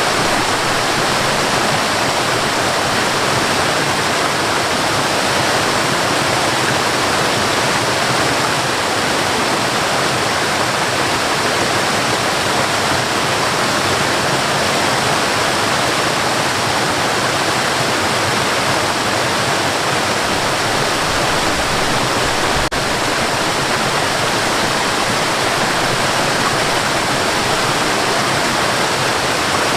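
Waterfall and river water rushing, a loud steady roar with no breaks.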